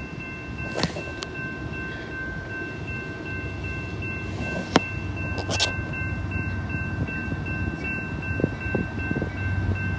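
Low rumble of a train, growing louder near the end, with a steady high-pitched whine held over it and a few sharp clicks.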